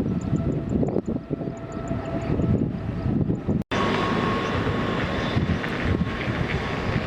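Jet airliner engines running: a steady rumble with a thin whine in it. It breaks off for an instant a little past halfway, then carries on with a different whine.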